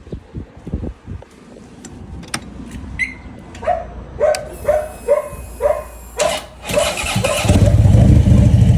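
Harley-Davidson V-twin motorcycle engine cranking on its starter in even pulses, about two a second, then catching about seven and a half seconds in and running loudly at idle. A few light clicks come first.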